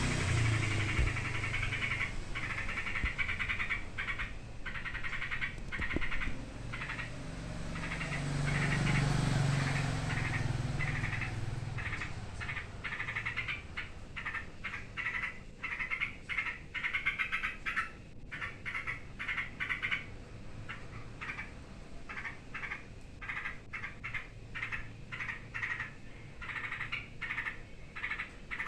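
Several bulbuls giving harsh, rapid chattering alarm calls, one frightened bird setting the others off, in dense runs of short notes with brief pauses. A low rumble sits underneath, strongest about a third of the way in.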